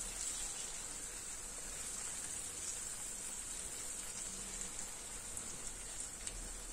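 Rice with tomato and pepper paste frying in oil in a pan as it is toasted and stirred: a faint, steady sizzle with a few small ticks.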